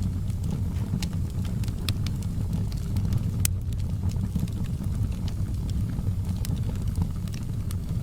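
Wood fire in a fireplace crackling: scattered sharp pops and snaps, one louder about three and a half seconds in, over a steady low rumble of the flames.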